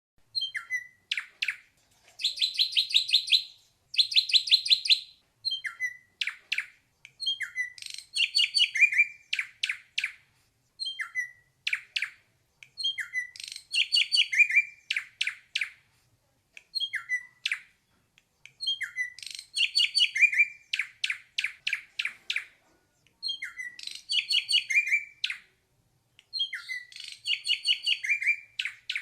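Ashy drongo singing: phrases of short whistled notes and quick chattering runs, repeated every two to three seconds, with two long, fast, rattling trills a few seconds in.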